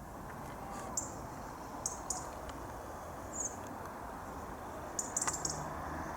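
Small birds chirping: short, high chirps every second or so, with a quick cluster of them about five seconds in, over a steady background hiss of outdoor noise.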